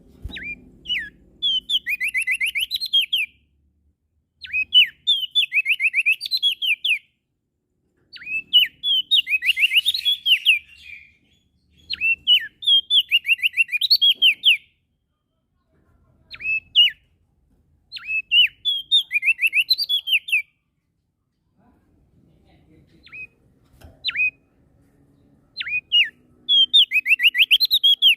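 A prenjak daun sings loudly in repeated phrases every few seconds. Each phrase is a fast run of high, downward-sweeping whistled notes.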